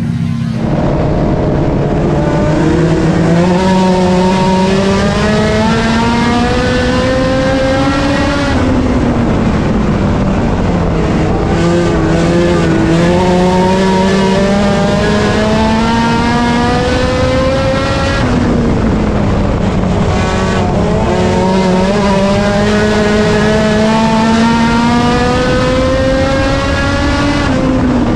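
A four-cylinder Honda Civic race car's engine on track, one engine heard continuously. Its revs climb steadily for about nine seconds at a time and drop sharply as the throttle is lifted, about a third of the way in, about two-thirds of the way in and near the end. This is the pattern of flat-out straights and lifting for the turns.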